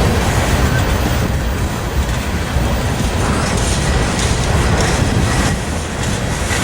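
Freight train rolling past close by: a steady, loud rumble of steel wheels on rail.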